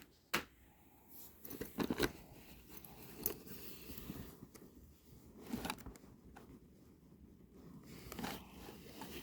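Gear being handled and rummaged through in a backpack: scattered light clicks and knocks with soft rustling of packaging.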